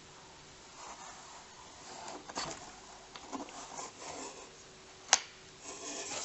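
Irregular handling noises: rustling and light knocks, with one sharp click about five seconds in.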